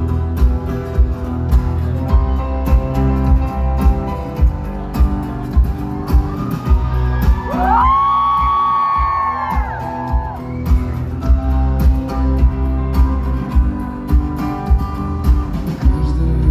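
Live band playing an instrumental passage of a rock song, with a steady beat of about two thumps a second under sustained chords. About halfway through, a held high note slides in, holds for a couple of seconds and falls away.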